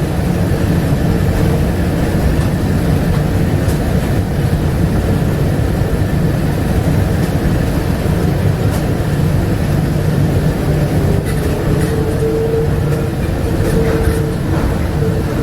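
Interior running noise of a 1999 Bombardier APM100 rubber-tyred people-mover car in motion: a steady rumble with a low hum. A higher whine comes up in the last third.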